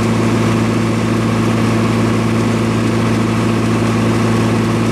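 MEP-004 military diesel generator running steadily with an electrical load on it, a constant even hum with no change in speed.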